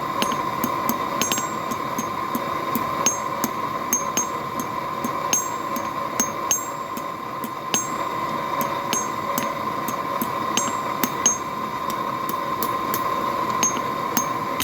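Forge blower running with a steady hum, the forge fire going with irregular sharp clicks and pops over it.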